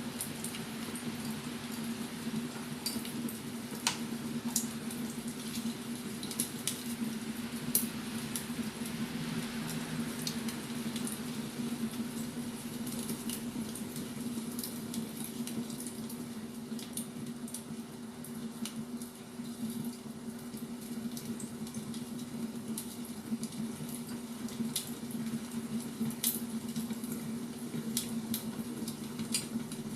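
Wood fire crackling, with sharp pops and snaps at irregular moments over a steady low hum.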